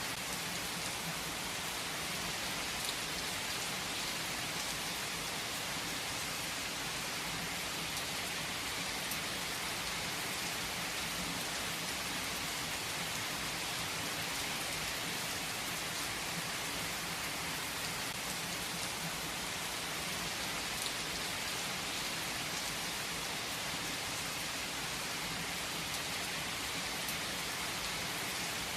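Steady rain falling on a surface, an even hiss with a few distinct drops ticking through it.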